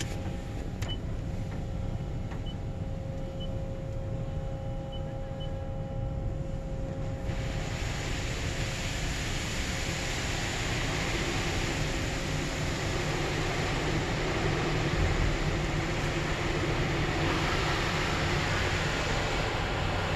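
Automatic car wash heard from inside the car: a low machine hum with a few faint beeps, then about seven seconds in, water spray starts hitting the car as a steady hiss that carries on to the end.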